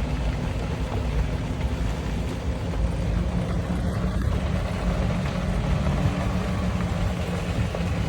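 Steady engine and road noise of a vehicle driving slowly, heard from inside, with a constant low rumble and hum.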